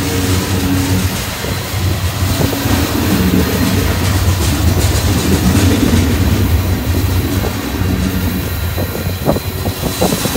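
Freight train of covered hoppers and boxcars rolling past at speed: a steady rumble of steel wheels on the rails, with sharp clacks of wheels over the rail joints in the last couple of seconds.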